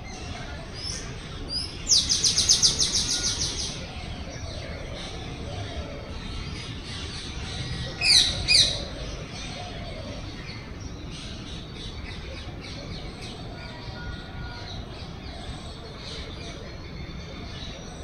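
Small birds calling: a fast high trill of about a dozen notes about two seconds in, two sharp high calls that fall in pitch about eight seconds in, and faint chirps after that.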